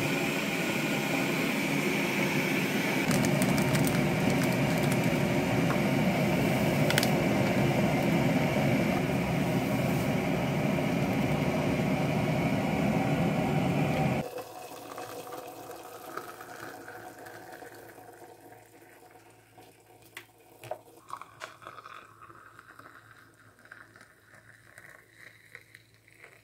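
Water at a steady boil, cutting off abruptly about fourteen seconds in; the bubbling then dies away with scattered small ticks.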